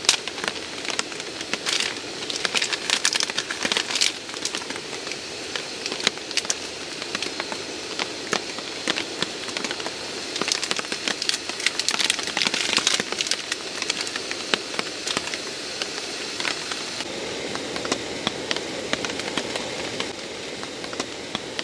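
Heavy rain falling steadily, with many sharp drips and splashes landing close by.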